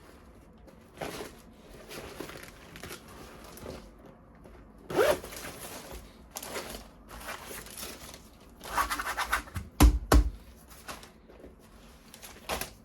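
Toy packaging and plastic parts being handled: a series of irregular zipper-like rasps and rustles, with two sharp plastic clicks a moment apart about ten seconds in.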